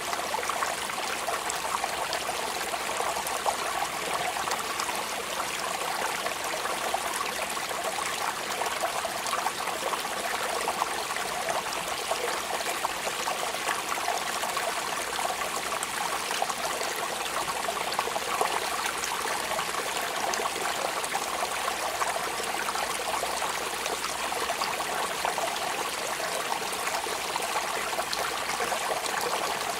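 Steady rain falling, a dense even patter of drops with no break.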